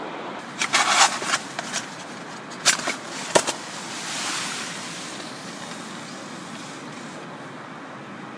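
Camp gear being handled: a quick run of clattering knocks about a second in, and a few more sharp knocks around three seconds, over a steady rushing background noise.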